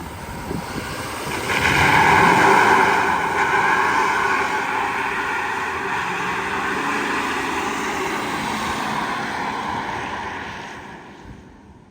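L5P Duramax 6.6 L V8 turbo-diesel pickup doing a burnout: the engine is run hard while the rear tires spin and smoke on the pavement, with both rear wheels spinning through the locking differential. The sound swells sharply about a second and a half in, holds loud, then fades away near the end.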